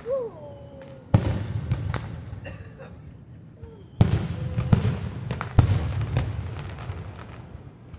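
Aerial fireworks exploding: a loud boom about a second in, then three more booms in quick succession from about four seconds in, each followed by rumbling echo and smaller pops.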